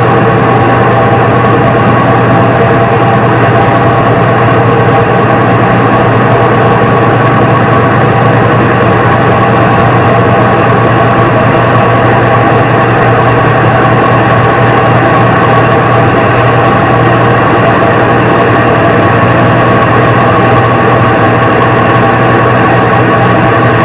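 Front-load washing machine running with a loud, steady machine hum made of several fixed tones, unchanging throughout.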